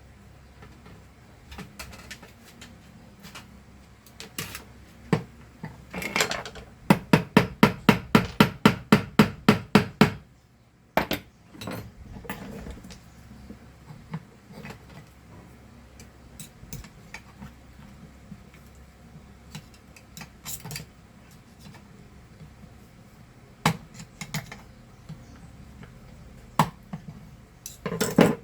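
Hand tools knocking and clinking on metal while a worn bearing is worked off the vacuum cleaner's motor shaft held in a bench vise. About a quarter of the way in comes a quick run of roughly a dozen sharp metal strikes, about four a second; the rest is scattered single knocks and clinks.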